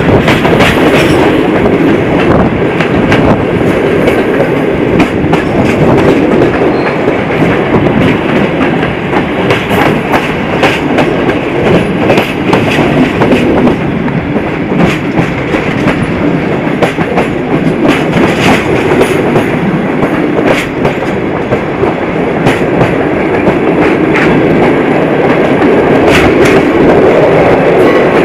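Passenger train carriage rolling along the track, heard at an open carriage window: a loud, steady rumble of wheels on rail with irregular sharp clicks from the rail joints.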